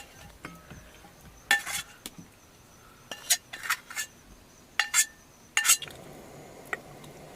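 Metal utensil clinking against a cooking pan and dish, about seven sharp ringing knocks, as fried chicken pieces are lifted out and set aside. Crickets chirr faintly in the background.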